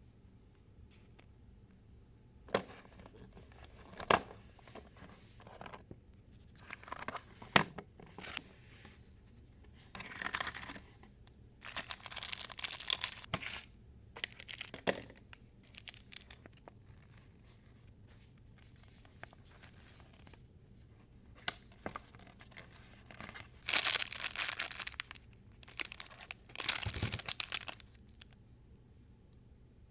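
LOL Surprise doll packaging being torn open and crinkled by hand in several short bursts, with a few sharp clicks between them.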